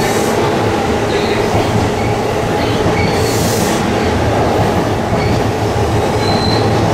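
Keihin-Tohoku Line E233 series electric train rolling slowly past on the next track: a steady rumble of wheels and motors, with brief faint wheel squeals now and then. A short hiss about three seconds in.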